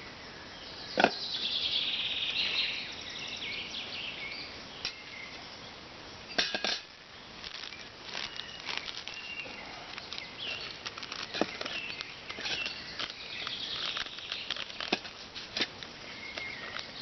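Camping gear being packed up by hand: rustling with scattered knocks and clicks, the sharpest knock about a second in.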